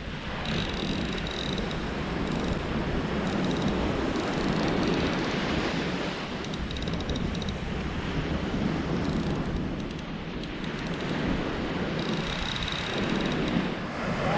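Wind on the microphone over surf washing onto the beach, a steady rushing noise that swells and eases every few seconds.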